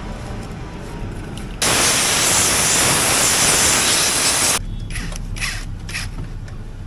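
A loud spraying hiss that starts abruptly about one and a half seconds in and stops suddenly three seconds later: a jet blasting packed mud out of a motorcycle's chain pocket. A few light metallic clicks of tools follow.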